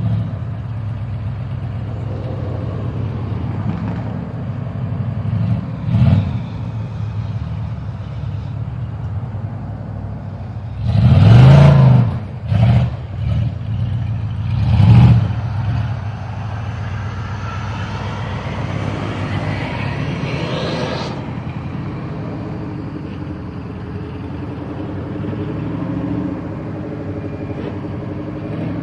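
1982 Jeep CJ7's engine idling steadily and being revved several times: a short rev about six seconds in, the biggest rev around eleven to twelve seconds, quick blips after it, and another rev near fifteen seconds.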